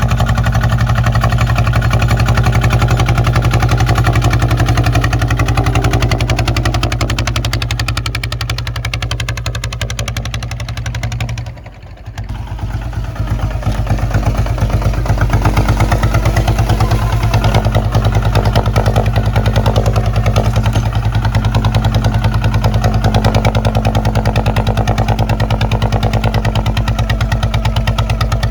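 Kubota ZT155 single-cylinder diesel engine on a two-wheel tractor running with a fast, even chug. It fades a little, drops out briefly just before the middle, then picks back up to full level.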